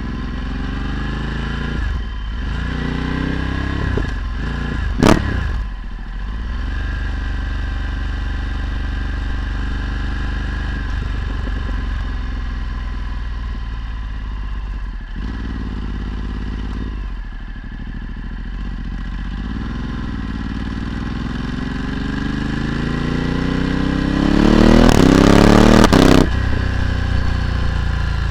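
Ducati Multistrada 1260's V-twin engine through a Termignoni exhaust while riding, pitch rising and falling with the throttle and gears. There is a sharp click about five seconds in. Near the end comes a hard acceleration, climbing in pitch, that cuts off suddenly.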